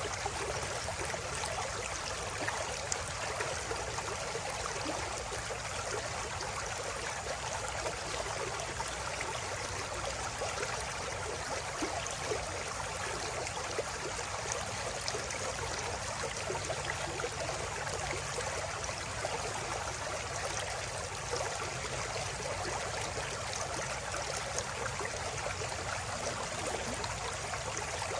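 Flowing river water running steadily over rocks, a continuous splashing and trickling.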